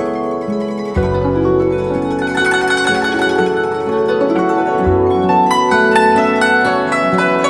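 Guzheng music: quick runs of plucked notes that ring on, over a low sustained bass line whose notes change about a second in and again near five seconds.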